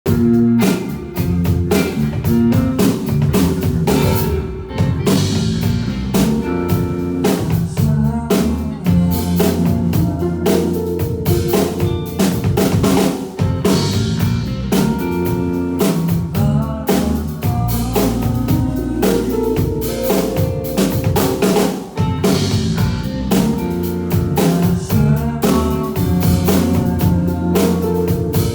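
A live band playing, with a full drum kit (kick, snare and rimshots) keeping a steady beat under bass and other pitched instruments.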